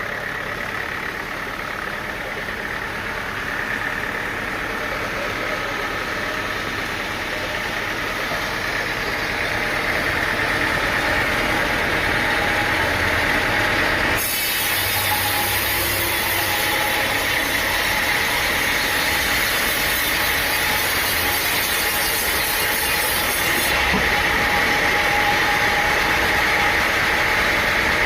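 Sawmill machinery running steadily, an engine-like drone. A high hiss joins suddenly about halfway through and drops out just as suddenly near the end.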